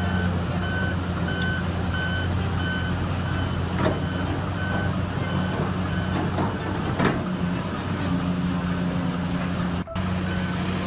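Heavy diesel construction machinery running steadily, with a backup alarm beeping in short, evenly spaced pulses. A few sharp knocks, about four and seven seconds in, are typical of rock being handled.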